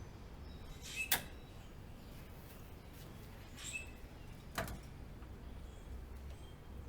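A few sharp metal clicks and clinks from tools and parts as a bicycle is taken apart. A loud close pair comes about a second in, a softer clink with a brief ringing note near the middle, and another sharp click shortly after.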